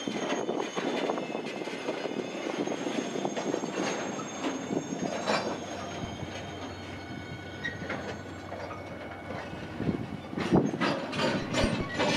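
Freight train tank wagons rolling slowly across a steel railway bridge: a steady rumble of wheels on rail with a thin, high wheel squeal, and a run of sharp clicks from the wheels near the end.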